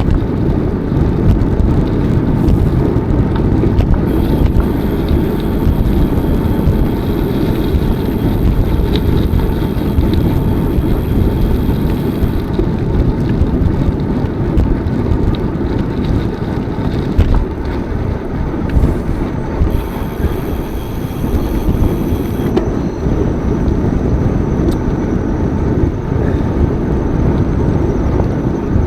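Steady low rumble of wind buffeting the microphone, mixed with tyre and road noise from a moving bicycle.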